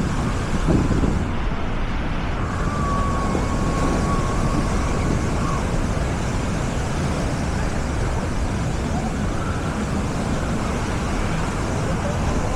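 Busy beach ambience: a steady wash of surf and crowd voices with wind rumbling on the microphone, and a thin, steady tone held for about three seconds a few seconds in.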